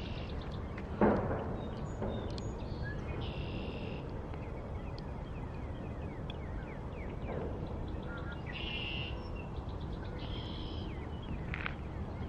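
Birds calling and chirping over steady outdoor rumble, with a single sharp knock about a second in.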